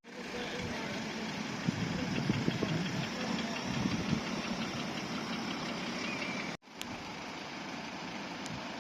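Car engine idling, rough and uneven. The sound cuts out abruptly about two-thirds of the way through and comes back a little quieter.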